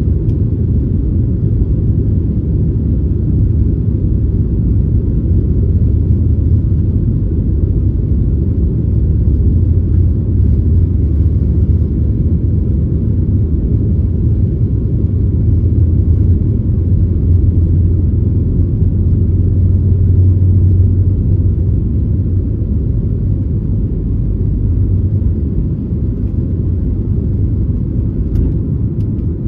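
Cabin noise inside a Boeing 737 MAX 8 airliner, heard from a window seat just behind the wing: a loud, steady low rumble of the CFM LEAP-1B engines and airflow.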